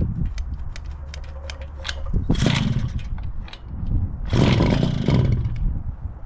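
Puch E50 two-stroke single-cylinder moped engine running on choke at its first start-up, with a low pulsing rumble and two short revs, one about two seconds in and one about four seconds in.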